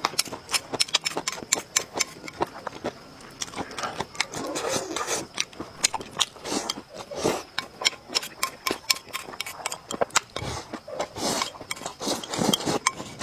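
Close-miked eating sounds: chewing and mouth noises, with many small clicks and knocks of utensils against dishes.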